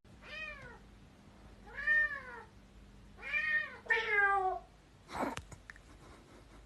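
Domestic cat meowing four times, each meow about half a second long and rising then falling in pitch, the last one sliding downward. A brief burst of noise follows about five seconds in.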